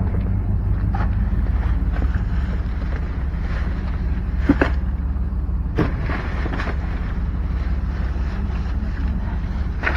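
Steady low mechanical rumble, like a running engine or machinery, with a few sharp knocks about four and a half and six seconds in.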